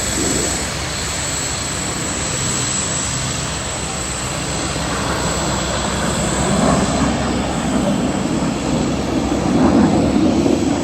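BAE Hawk jet engine noise from display jets overhead: a steady sound that grows louder through the second half, loudest near the end.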